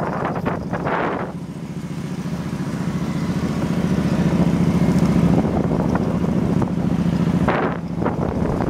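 Motorbike engine running under way, a steady low hum that grows louder over the first few seconds. Wind buffets the microphone in the first second and again near the end.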